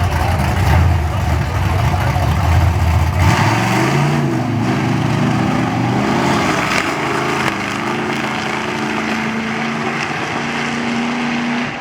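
Car engine running loud with a deep rumble, then revving: its pitch rises and falls from about three seconds in and holds steadier near the end.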